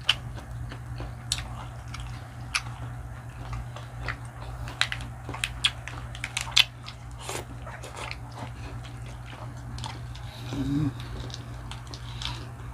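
Close-up eating: crunchy bites and chewing of fried food, with sharp crunches scattered irregularly over a steady low hum. A short voiced sound comes about ten and a half seconds in.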